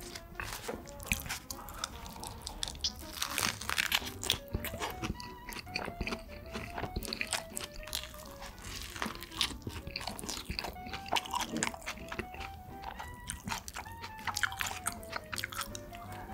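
Close-miked biting and chewing of a cheeseburger with lettuce: a steady run of crunches and chewing, over light background music with a simple melody.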